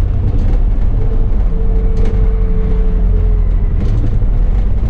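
Bus engine and drivetrain running on the move, a strong low rumble with a steady whine that holds for a couple of seconds in the middle. A few faint knocks or rattles.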